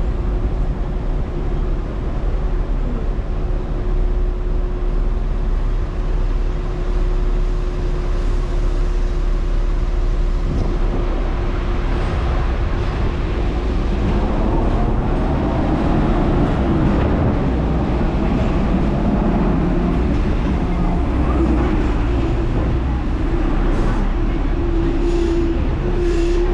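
Hong Kong electric tram running on its rails: a steady low rumble with a constant motor hum, and tones that slide up and down in pitch about halfway through.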